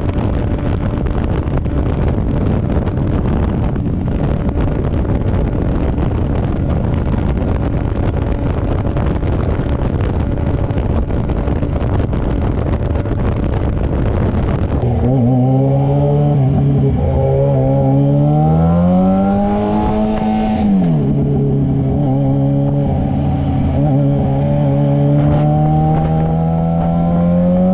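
Yamaha FZ6R's inline-four engine while riding: at first a steady engine drone under heavy wind rush. After an abrupt change about halfway, a clear engine note climbs under acceleration, drops sharply a few seconds later, holds steady, then climbs again near the end.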